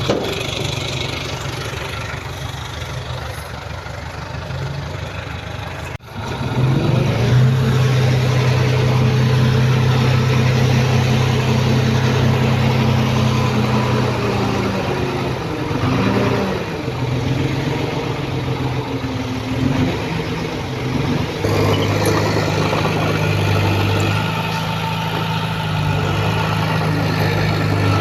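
Diesel engine of heavy earthmoving machinery running. It breaks off briefly about six seconds in and comes back louder, its pitch rising and falling several times.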